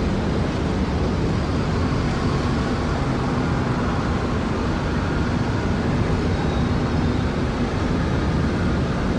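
Heavy city traffic heard from high above: a steady, even hum of many vehicles with faint engine tones drifting through it.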